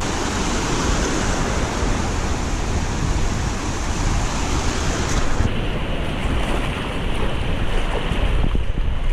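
Sea surf washing in, with wind buffeting the microphone; the sound changes abruptly about halfway through.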